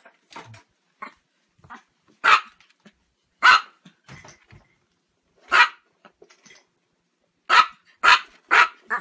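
Chihuahua barking in short, sharp yaps: six loud barks at uneven gaps, the last three in quick succession near the end, with a few faint yips before them.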